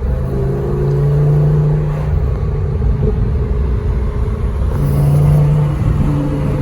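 Lamborghini Huracán Performante's V10 engine running as the car is driven, its note holding a steady pitch and getting louder in two stretches, about a second in and again around five seconds.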